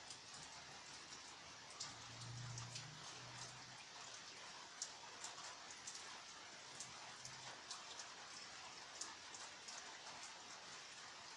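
Faint steady rain, with individual drops ticking sharply on a hard surface. A low hum is heard briefly about two seconds in and again around seven seconds.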